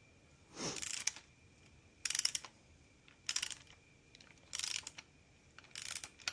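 Hand socket ratchet clicking in five short spurts, about one every second and a quarter, as a connecting-rod cap bolt is snugged down before final torquing.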